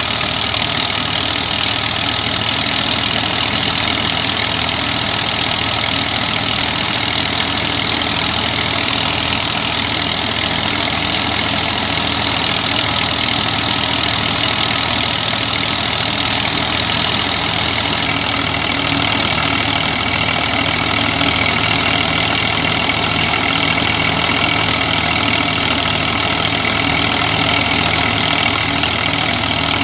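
Massey Ferguson 240 tractor's three-cylinder diesel engine running steadily under heavy load, driving a thresher, with the thresher's continuous whirring noise over the engine. The level stays even throughout.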